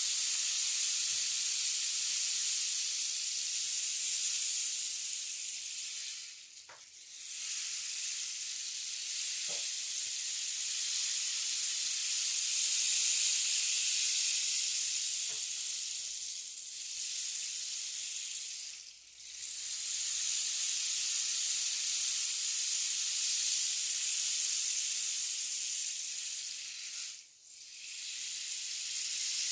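A 1.3 m rain stick giving a steady, hissing rush of fill trickling down inside the tube. The sound briefly fades three times, about six, nineteen and twenty-seven seconds in, as the fill runs out and the stick is tipped over to start the flow again.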